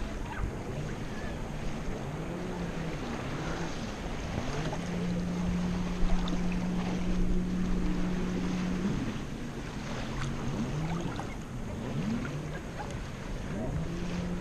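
Muffled underwater noise picked up by a camera under the sea, with a low droning tone that holds steady for a few seconds around the middle and elsewhere glides up and down.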